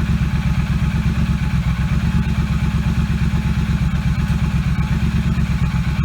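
Triumph Street Cup's 900 cc parallel-twin engine idling steadily through aftermarket TEC slip-on mufflers, an even low pulse with no revving.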